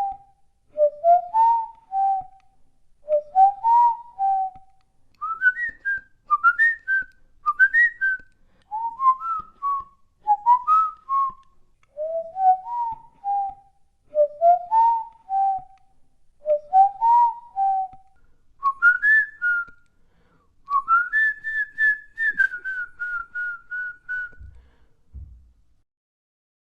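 A person whistling a tune of short rising three-note phrases, repeated about every second and a half. The phrases move higher in the middle and finish on a longer held note that steps down before stopping.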